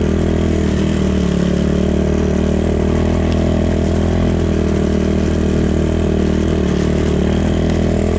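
Chinese 250 cc enduro motorcycle engine running at a steady, nearly constant speed, heard close to the on-bike microphone as the bike is ridden.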